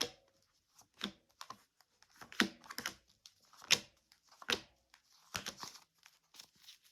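Tarot cards being drawn and laid out on a table: a string of separate short card slaps and rustles, the loudest about midway.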